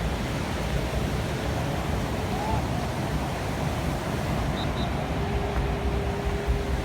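Steady noise of wind on the microphone mixed with the wash of the sea, heaviest in the low rumble, with no distinct impacts.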